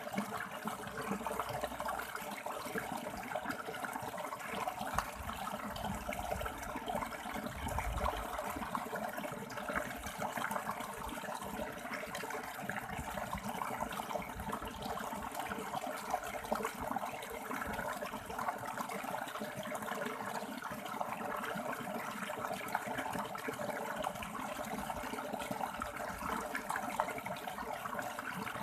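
River water rushing and splashing over stones in a steady, even flow.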